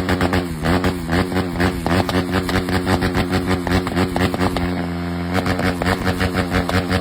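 KTM Duke motorcycle engine idling with a fast pulsing exhaust beat; its pitch dips briefly twice in the first second.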